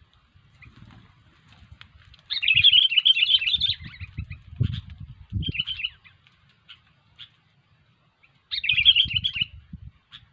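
Sooty-headed bulbul (kutilang) giving two bursts of rapid, chattering calls, a longer one about two seconds in and a shorter one near the end, with a few short notes between them. Low thumps and rustling come with the calls.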